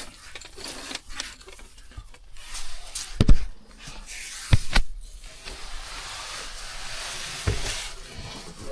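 A person climbing down a cave's rocky entrance pit: a few knocks and thumps of boots and body against rock, the loudest about three seconds in, with rustling and scraping of clothing and gear between them.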